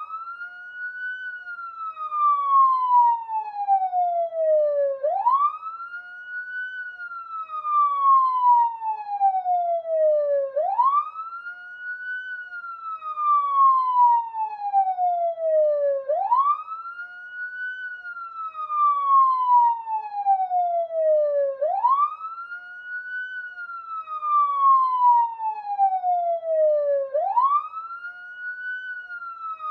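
Police siren sounding a slow wail: the pitch sweeps up quickly, then falls slowly back down, repeating about every five and a half seconds, six rises in all.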